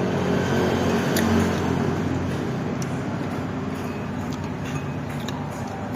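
A road vehicle passing by: a low engine hum that swells about a second in and then slowly fades away.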